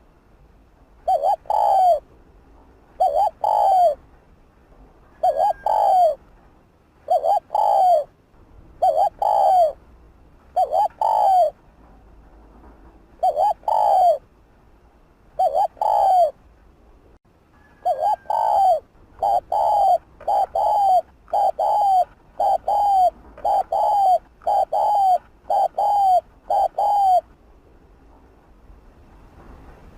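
Spotted dove cooing: a long run of short, low coos, one every second or so with a few longer pauses, that stops a few seconds before the end.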